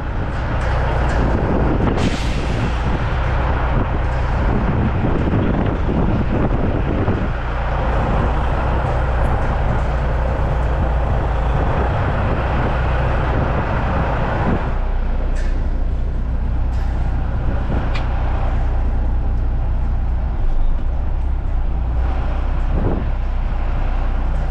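Caterpillar C-15 diesel in a Kenworth truck idling steadily, with a short hiss about two seconds in and a wash of broader mechanical noise that eases off about halfway through.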